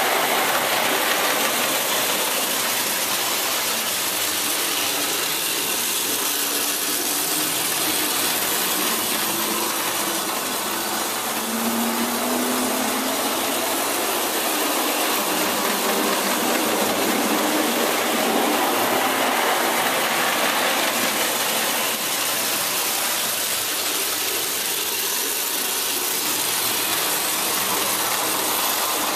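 Vintage French Hornby electric toy locomotive running on track, with a steady mechanical whirr and rattle of its motor and wheels.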